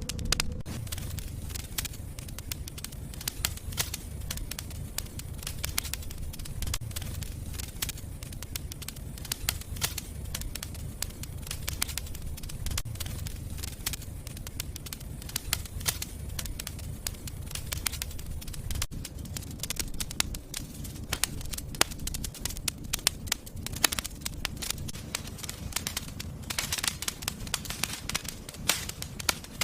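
Fire in a fireplace crackling, with frequent sharp pops and snaps over a steady low rumble of the flames. The louder pops come more often in the second half.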